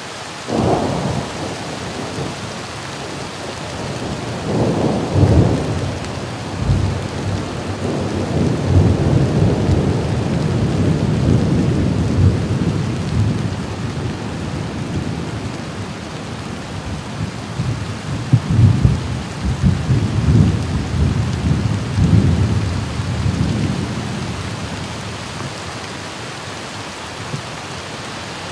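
Thunder rolling over steady rain. It opens with a sudden crack about half a second in, swells into several louder peals through the middle, and dies away near the end, leaving the rain.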